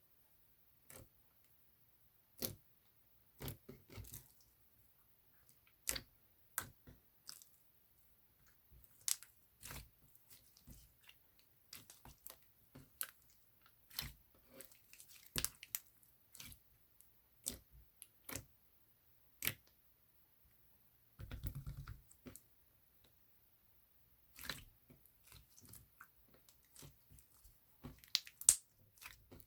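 Irregular sharp clicks and taps, often one or two a second, with a short rustle about twenty-one seconds in.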